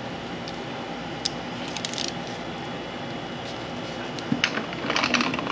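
A few light clicks and scrapes of hand tools being worked under a motorcycle at the start of an oil change, the loudest cluster near the end, over a steady background hiss.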